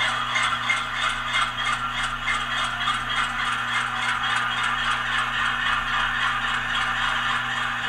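Diesel prime mover sound of a GE AC4400CW, played by an ESU LokSound decoder through the HO model locomotive's small onboard speaker, running just after startup. A rapid rattling beat, about four a second, sits over a steady hum and fades during the first few seconds.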